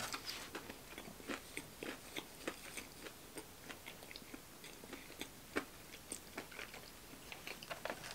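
A person chewing fried chicken fingers with the mouth closed, heard close up: faint, irregular small clicks and crunches, a few a second.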